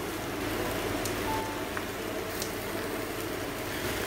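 Chinese cabbage sizzling as it fries in a hot pan, a steady hiss.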